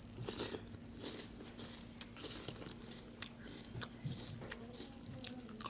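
Crunchy cereal being chewed: a run of irregular crunches, over a faint steady low hum.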